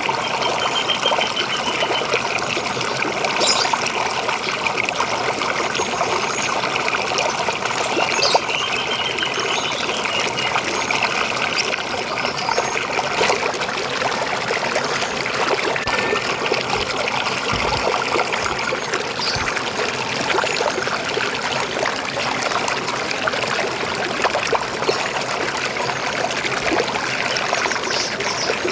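River water flowing and trickling steadily, with a few faint short bird chirps over it.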